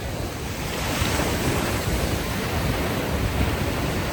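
Ocean waves washing onto a beach, with a wave surging in about a second in, and a low rumble of wind on the microphone.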